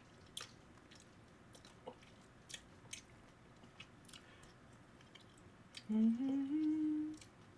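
Chewing fried chicken close to the microphone: scattered short, sharp mouth clicks and small crunches. Near the end comes a rising hummed "mmm" lasting about a second.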